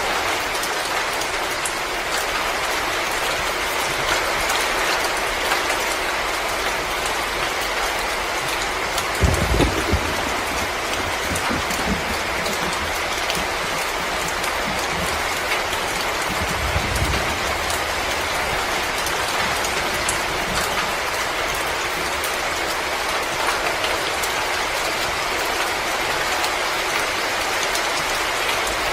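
Steady rain-like hiss dotted with fine crackles, as from a fire or falling rain, with two short low rumbles about a third and then about halfway through.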